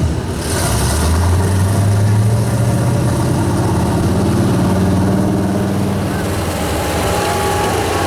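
Super stock 4x4 pulling truck's engine running loud, its revs climbing about a second in, holding, then easing off after about six seconds.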